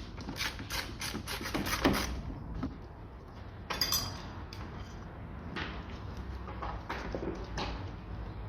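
Ratchet wrench clicking in quick, even strokes, about five a second, as a 10 mm nut on the battery hold-down bracket is loosened, with a clatter of metal parts about four seconds in and more scattered clicks after.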